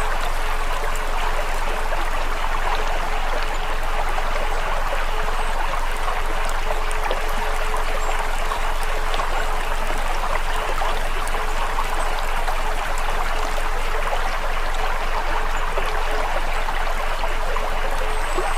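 Steady rushing sound like a flowing stream, even throughout, with a faint steady hum beneath it and a few faint high chirps near the end.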